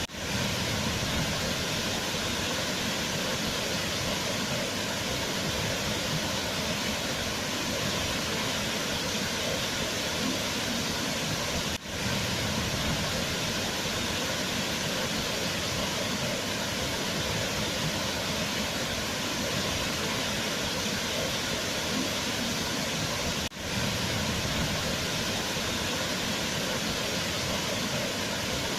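Waterfall: water falling steadily in an even, unbroken rush, with two brief dropouts about twelve seconds apart.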